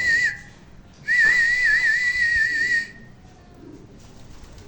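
A shrill whistle with a fast, even warble, blown in two long blasts: the first cuts off just after the start, the second begins about a second in and lasts nearly two seconds.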